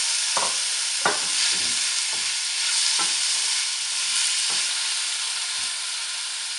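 Chopped vegetables sizzling steadily in hot oil in a wok, stirred with a wooden spatula that scrapes and knocks against the pan several times.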